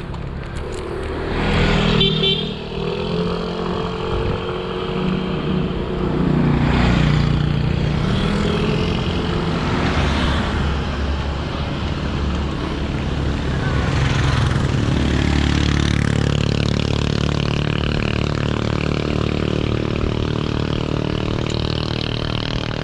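Motor vehicle engines running close by on the road, their pitch rising and falling for the first part and holding steadier in the later part.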